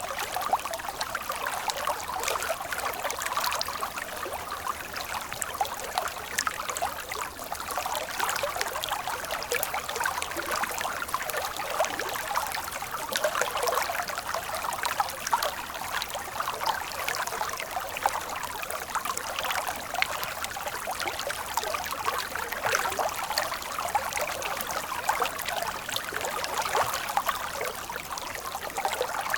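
Water flowing in a stream: a steady babbling trickle full of small splashes, with little deep roar.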